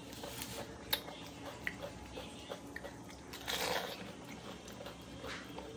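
Mouth sounds of eating panipuri: the crisp, hollow puri shells crunching and being chewed, with a sharp crack about a second in and a louder, longer crunch a little past the middle as another water-filled puri goes into the mouth.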